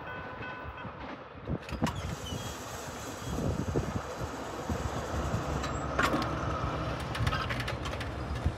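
Metra commuter train rolling away down the track: a steady low rumble of wheels on rail with a few sharp clicks.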